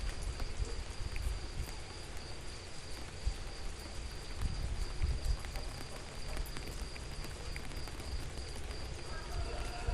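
Rain falling, an even hiss with scattered drop ticks, over a steady high-pitched tone and a low rumble. A brief pitched call comes in near the end.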